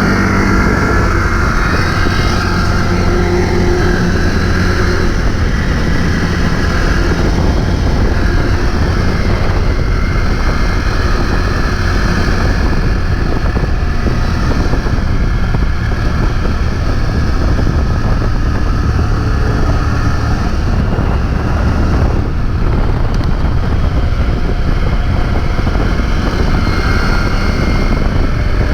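A vehicle engine running steadily while driving, with wind buffeting the microphone.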